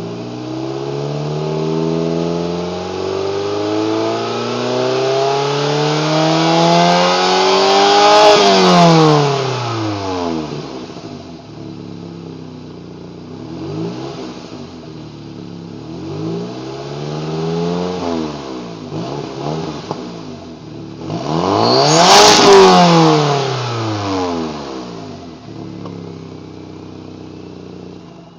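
2006 Saab 9-3 engine through its modified stock exhaust, being revved. The pitch climbs slowly to a peak about eight seconds in and falls back. Two smaller blips follow, then a quick high rev a little past twenty seconds, before it settles back to idle.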